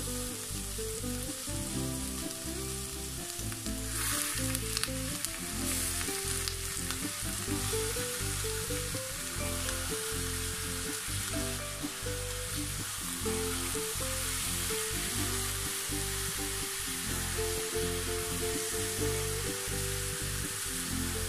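Chicken pieces sizzling in hot oil with ginger, onion and garlic in a frying pan, a steady hiss, and stirred with a wooden spatula near the end. Background music with a melody plays underneath.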